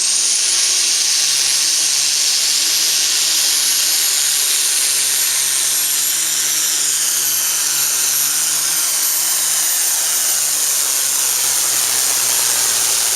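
Turbocharged diesel pulling tractor running hard at full throttle under load. A high turbo whistle sits over a dense hiss and the low engine note, and the sound stays steady and loud.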